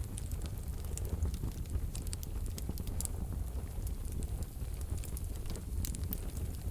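Wood fire burning in a fireplace stove: a steady low rumble of the flames with frequent quiet crackles and a few sharper pops scattered through.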